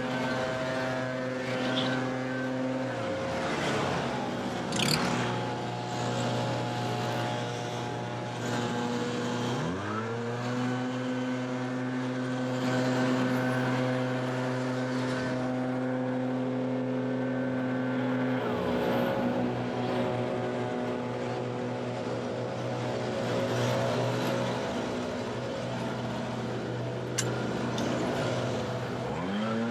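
Two-stroke backpack leaf blower running at high throttle; the throttle is let off a few times and the engine revs back up to full speed each time.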